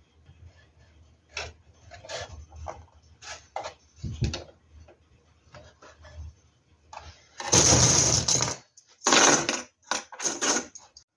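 Woodworking shop sounds: scattered light taps and knocks on wood, then three short, loud, hissing bursts of a power tool or air blast, the first about a second long and the last two shorter.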